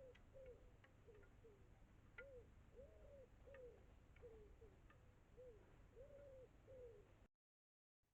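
A dove cooing softly: a steady run of short, arched coo notes, about two a second, with a few faint high ticks among them. The sound cuts out abruptly near the end.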